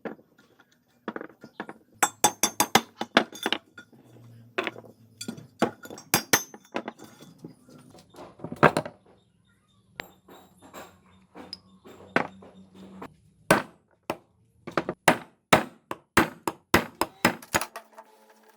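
Irregular clusters of sharp metallic clinks, taps and knocks of hand tools on metal parts.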